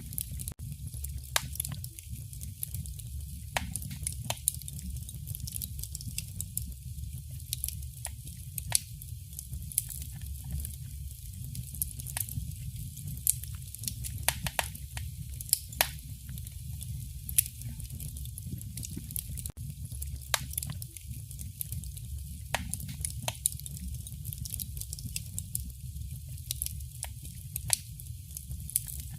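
Fire burning in a fireplace: irregular sharp crackles and pops over a steady low rumble from the flames.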